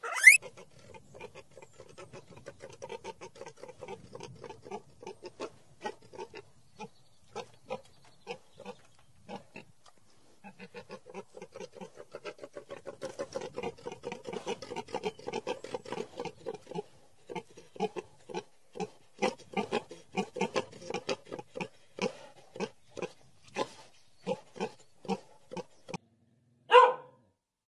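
Wild boars grunting: a run of short grunts, two or three a second, that grows louder after a brief break about ten seconds in. Near the end there is one short, louder call.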